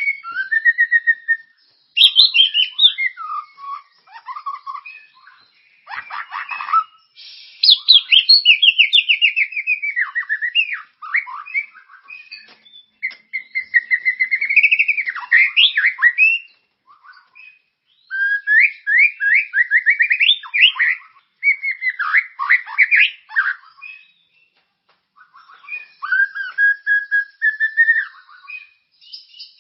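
Recorded songbird song from a masteran training track: rapid varied whistles, sweeping notes and fast trills in phrases a few seconds long, with short pauses between them.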